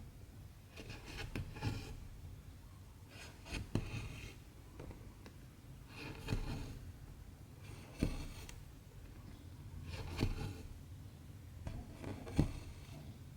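Cotton embroidery thread drawn through stamped cross-stitch fabric by hand, a short soft rasp about every two seconds, six in all, some starting with a light tap of the needle.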